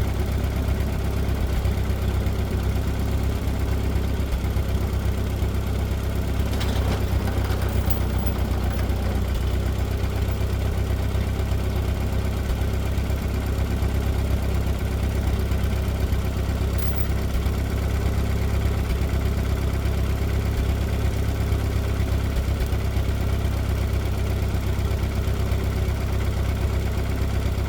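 Tractor engine idling steadily, a constant low run with no revving.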